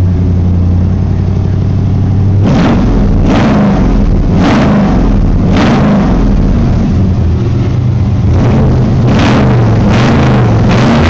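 Pickup truck's V8 exhaust through Flowmaster Super 10 mufflers, loud and deep at idle, then blipped a few times a second or so apart and revved in quick succession near the end, shortly after a cold start.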